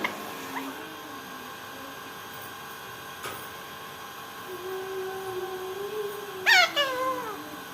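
A pet animal's loud meow-like call about six and a half seconds in, falling in pitch, over a faint steady background.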